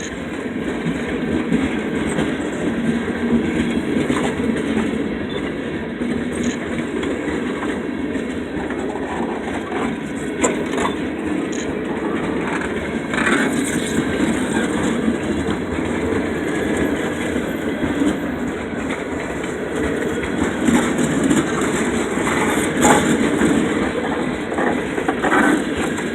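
Freight train of tank cars rolling past at close range: a steady rumble of steel wheels on rail, with scattered sharp clicks and clanks.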